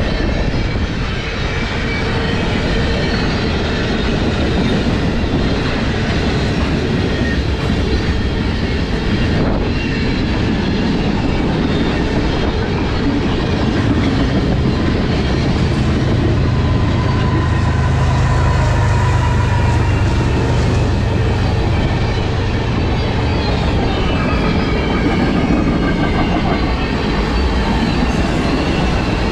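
Long freight train's cars rolling steadily past, wheels clicking over the rail joints, with a faint wheel squeal partway through.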